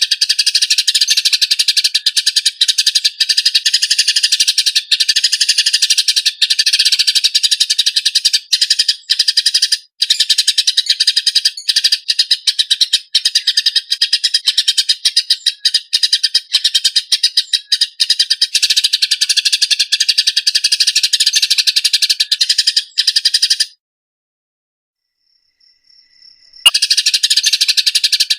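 Eurasian tree sparrows giving harsh, rapid fighting chatter, a dense stream of chirps with hardly a break. Near the end it stops for about three seconds, then resumes after a click.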